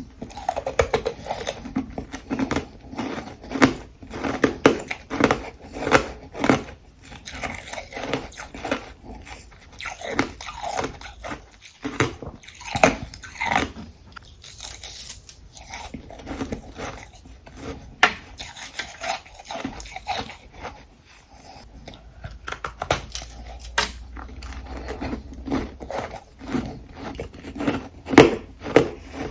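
Ice being bitten and chewed close to the microphone: a rapid, irregular run of hard crunches.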